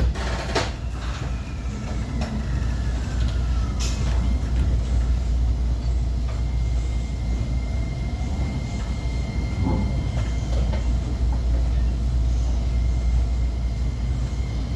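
JR 125-series electric railcar running along the line: a steady low rumble of wheels on rail, with a few sharp clicks in the first four seconds. A thin electric whine from the traction motors falls in pitch early on, then holds a steady high tone from about six seconds in.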